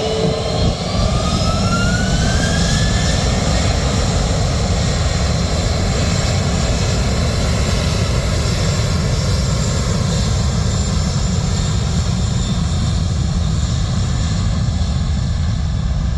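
Jet airliner's engines spooling up, a whine rising in pitch over the first few seconds, then a loud steady roar with a high whine held above a deep rumble.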